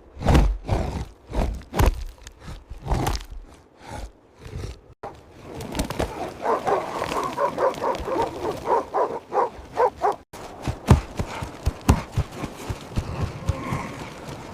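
A run of heavy thuds, then, about six seconds in, an animal call in rapid pulses lasting around four seconds, followed by more thuds.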